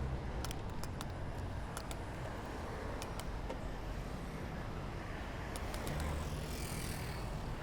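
Street traffic and road noise heard from a moving bicycle: a steady rush with a low car-engine hum at the start and again about six seconds in, and scattered light clicks and rattles.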